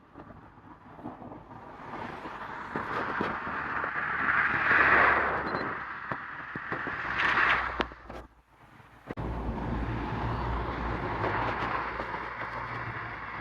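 A vehicle passing close by, its noise building to a peak about five seconds in and fading. After a brief dip, a steady low engine hum sets in abruptly near the end.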